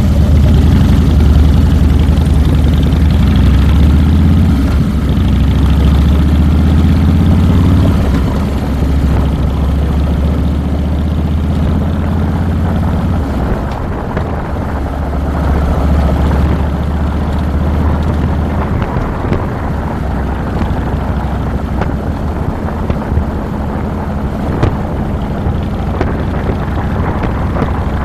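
2007 Harley-Davidson Fat Boy's Twin Cam V-twin engine running while riding, with wind noise on the handlebar-mounted microphone. The engine's pitch rises over the first several seconds, then the engine eases off and gets quieter about halfway through.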